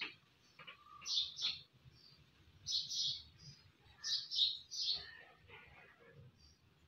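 A small bird chirping in short, high, quick runs of two or three notes, with three bursts about a second apart.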